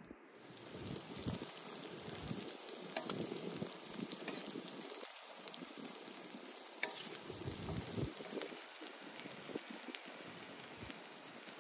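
Chunks of offal, potatoes and peppers sizzling in a wide iron pan, fat spitting in many sharp little crackles, while a wooden spatula scrapes and turns the pieces.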